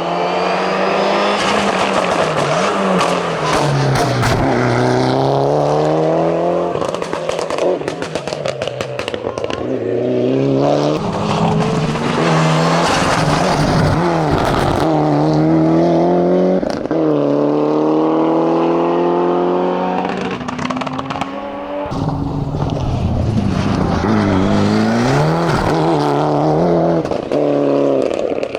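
Race car engine revving hard under full throttle on a hillclimb. Its pitch climbs and drops again and again as the driver changes gears and lifts for corners, with sharp cracks and pops mixed in.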